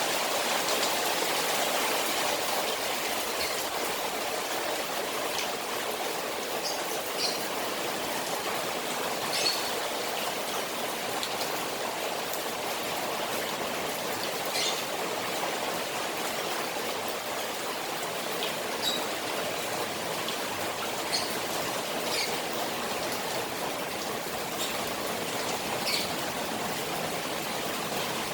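Rain on a koi pond: a steady rush of water with scattered louder drops or drips ticking through it.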